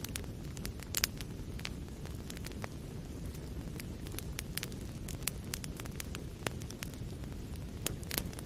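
Wood fire burning in a fireplace: a steady low rumble of flames with irregular sharp crackles and pops from the burning logs, a louder pop about a second in and another near the end.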